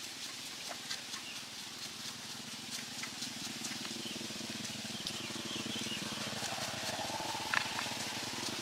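A small engine running steadily with a fast, even beat that grows louder about halfway through, with scattered light ticks over it.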